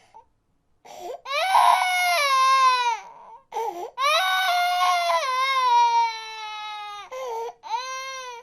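A baby crying: long wailing cries that fall in pitch, broken by short sobbing cries in between, the first starting about a second in.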